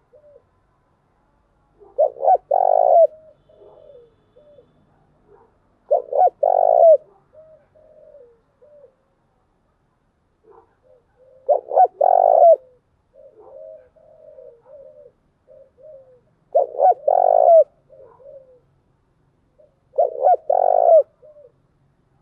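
Spotted dove cooing: five loud cooing phrases about every four to five seconds, with softer short coos between them.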